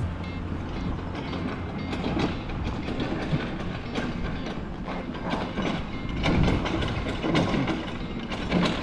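Road-works machinery clattering and rumbling, with irregular knocks and rattles over a steady low noise.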